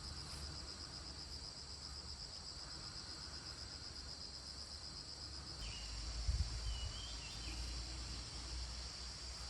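Insects trilling in a steady high chorus, with a change in its texture and a brief low thump about six seconds in, and a few short chirps after it.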